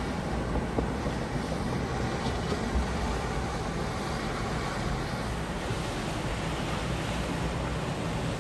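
Boat engines running with steady water wash and wind buffeting the microphone, a constant low hum under a noisy hiss.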